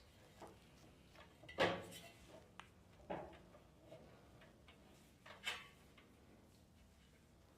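Scattered clicks and knocks of hand tools and metal heater parts being handled during disassembly, the loudest knock about one and a half seconds in, with others near three and five and a half seconds.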